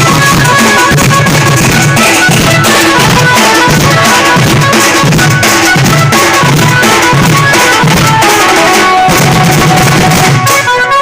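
Sambalpuri band-party music played loudly: a steady drum beat, about three low strokes every two seconds, under a pitched melody line. The drums drop out for about a second near the end and then come back in.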